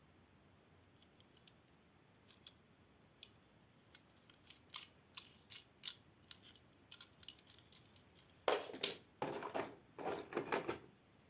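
Plastic toy fire and rescue car being handled: small sharp clicks and taps, sparse at first and then more frequent, followed near the end by a couple of seconds of denser scraping and rattling.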